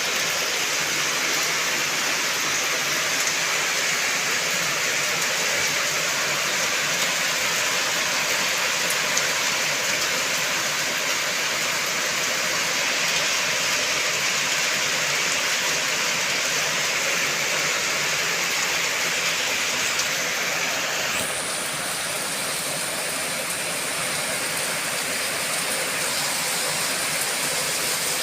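Heavy rain falling steadily, a dense even hiss. It eases slightly about three-quarters of the way through.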